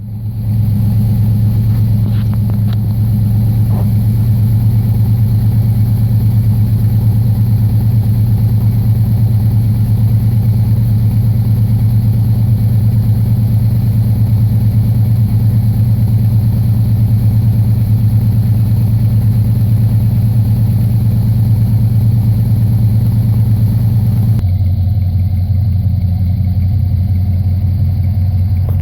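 Chrysler 318 V8 with a two-barrel carburettor idling steadily through a homemade dual exhaust with Dynomax Super Turbo mufflers. The engine speed steps down to a slower, deeper idle about 24 seconds in.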